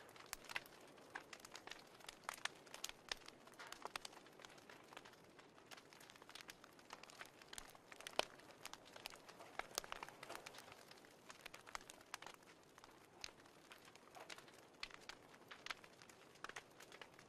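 Fireplace crackling: irregular sharp pops and snaps over a faint steady hiss.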